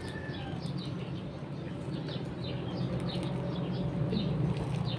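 Small birds chirping in quick, repeated short notes over a steady low hum.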